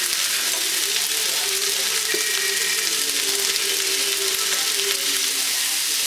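Fried rice sizzling in a hot frying pan, a steady hiss while it is stirred with a wooden spatula, with one sharp knock about two seconds in.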